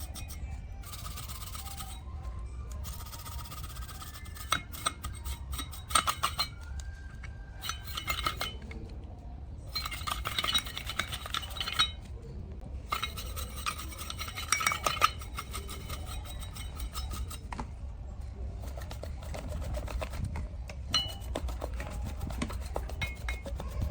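Brisk rubbing or scrubbing strokes on a hard part, coming in bursts of a second or two with short pauses, with occasional light clinks.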